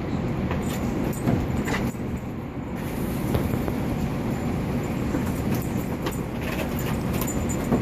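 Steady rain with a low rumble underneath, scattered with short sharp clicks and taps.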